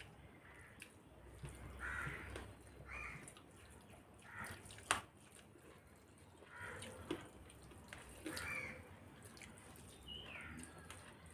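Wet, smacking chewing and mouth sounds of people eating rice and fried vegetables by hand, in short separate bursts, with one sharp click about five seconds in.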